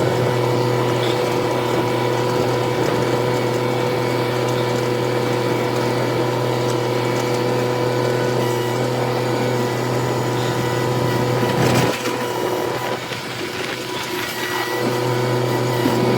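An engine running steadily; it drops off about twelve seconds in and picks back up about three seconds later.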